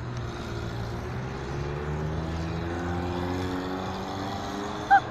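A Zastava Yugo's engine running as the car drives off, its pitch rising and falling gently. A brief loud sound comes near the end.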